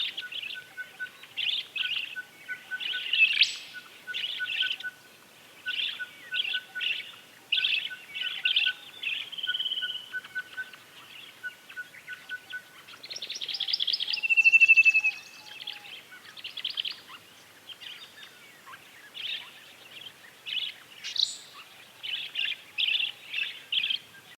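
Bronze-tailed plumeleteer, a hummingbird, calling in repeated short bursts of rapid chips, with two brief whistled notes that fall slightly in pitch midway. Beneath them runs a steady, evenly spaced series of lower pips that stops partway through.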